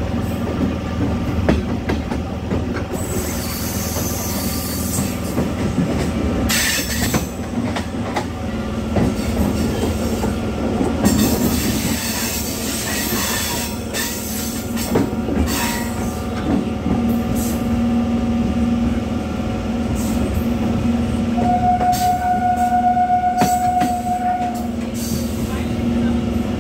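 Passenger train coach running at speed, heard from outside its open window: a steady rumble of wheels on the rails with short knocks scattered through it. A steady high tone sounds for about three seconds near the end.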